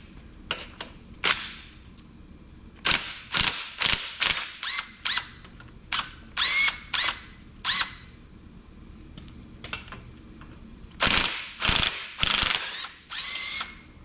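Socket ratchet wrench clicking in short runs of strokes as the bolts holding a winch are worked loose, some strokes ringing with a brief metallic tone.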